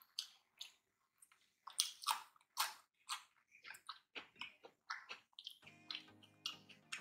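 Close-miked eating sounds of rice and curry being chewed, as irregular short clicks a few times a second. Background music comes in near the end.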